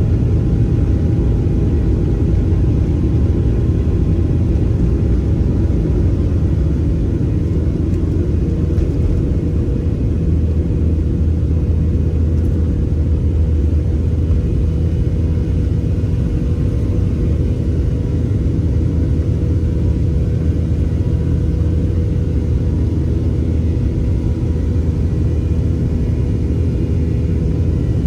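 Airliner cabin noise heard from inside the plane: a loud, steady rumble of jet engines and airflow with a constant low hum.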